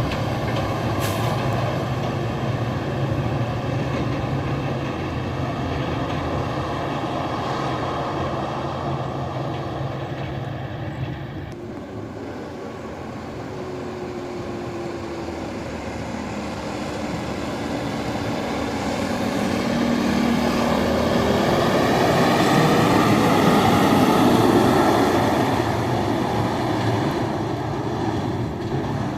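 Diesel engines of loaded dump trucks passing. One truck's engine runs steadily and fades about twelve seconds in. Another then approaches, growing louder with its engine pitch shifting, and is loudest near the end before easing off.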